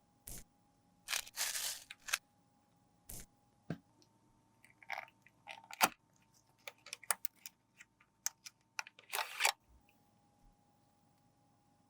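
Makeup product being worked by hand: irregular crunches, scrapes and clicks, with two longer crunching bursts, one a little over a second in and one near the end.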